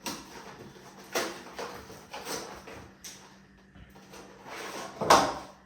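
Large plastic zip-lock freezer bags being handled and unfolded, crinkling and rustling in several short bursts, the loudest about five seconds in.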